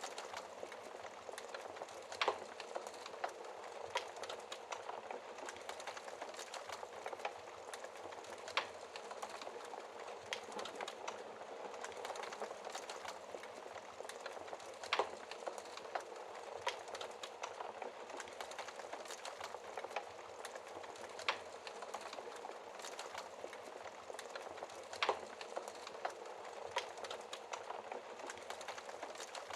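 Wood fire burning: a steady dense crackle and hiss, with sharper pops from the burning logs every few seconds.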